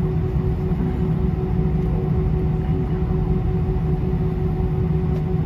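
Airbus A320 engines and airflow heard inside the cabin: a steady low rumble with a constant hum.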